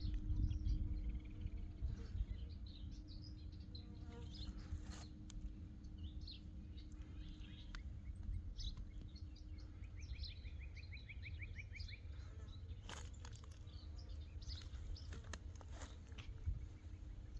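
Outdoor ambience: a low rumble of wind on the microphone, with short high chirps scattered throughout and a quick even trill about ten seconds in. A steady low buzz drops out about ten seconds in and returns near the end.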